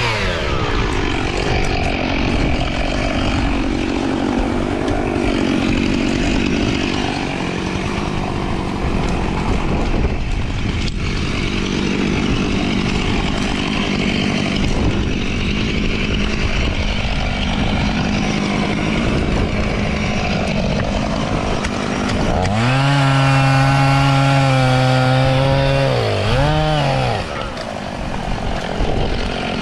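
Chainsaw running under load, cutting through wood. A little over twenty seconds in, it revs freely at a high, steady pitch for about four seconds, then wavers and drops back toward idle.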